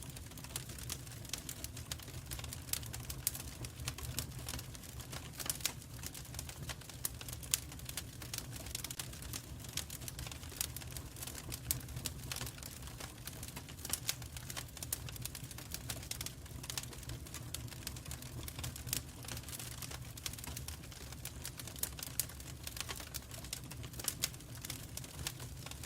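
Wood fire in a fireplace crackling: many irregular sharp pops and snaps over a steady low rumble of flames.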